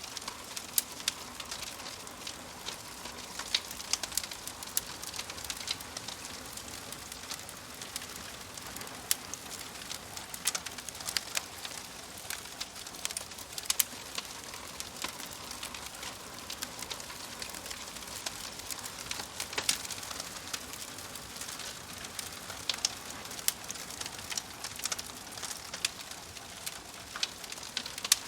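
Logs burning in a fireplace, crackling: a steady soft hiss with irregular sharp pops and snaps.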